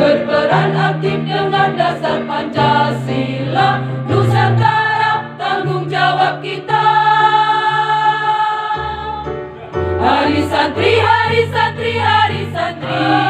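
Women's choir singing over an instrumental accompaniment with a steady bass line that changes note every second or so. About seven seconds in, the choir holds a long chord for around two seconds.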